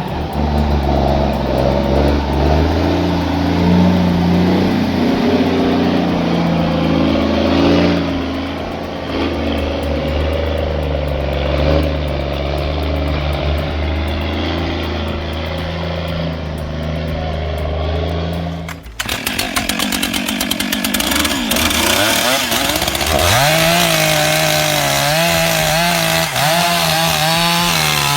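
A heavy engine runs steadily for most of the stretch. About two-thirds of the way through the sound changes abruptly to a chainsaw revving and cutting, its pitch rising and falling as it works.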